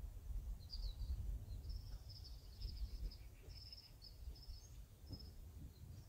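A small bird chirping in a string of short, high notes and brief trills, over a low background rumble.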